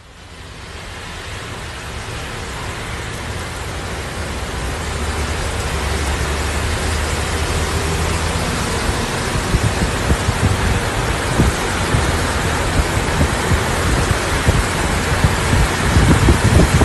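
Heavy rain and water pouring down rock faces, heard from a moving vehicle: a steady rushing hiss that starts abruptly and swells over the first few seconds. Irregular low thumps come in during the second half and grow stronger near the end.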